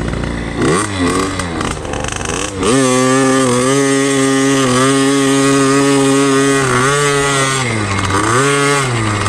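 Two-stroke KTM dirt bike engine revving. It climbs about three seconds in and is held at a steady high pitch for about four seconds, then drops back and is blipped up twice more.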